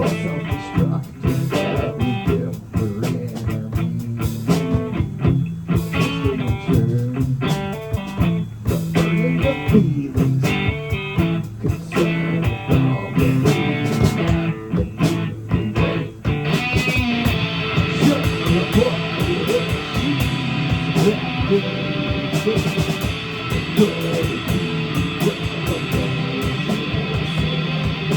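A live rock band playing a guitar-led song. The guitar plays choppy, stop-start figures, and about 16 seconds in it shifts to fuller, sustained chords.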